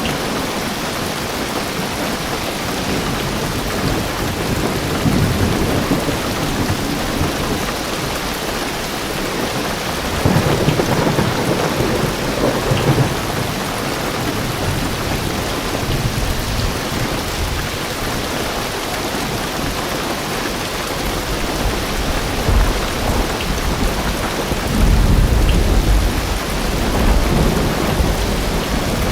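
Heavy rain drumming steadily on a car roof and windows, heard from inside the car, with several low rumbles of thunder rolling through, the loudest near the end.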